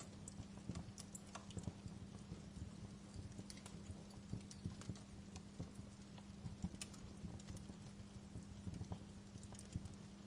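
Wood fire crackling in a fireplace: irregular small pops and snaps over a steady low background.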